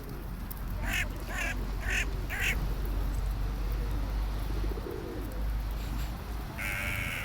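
Waterbirds calling at a lake: a run of four short, evenly spaced calls about a second in and more calls near the end, over a steady low rumble.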